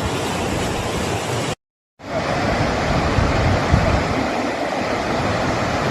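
Steady rushing of floodwater. The sound cuts off to silence for a moment about a second and a half in, then a similar rushing noise resumes with less hiss.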